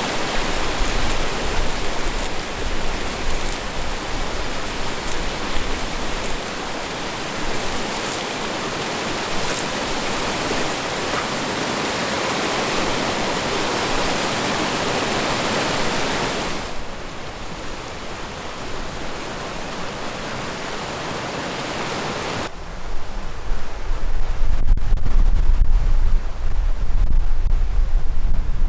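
Steady rushing of river water with faint scattered ticks, which drops to a softer rush about two-thirds of the way in. Near the end, strong wind buffets the microphone with a deep rumble.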